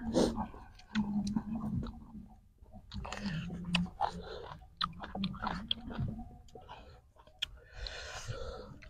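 A man chewing raw beef close to a clip-on microphone, with irregular wet mouth sounds, sharp clicks now and then, and a few short low hums.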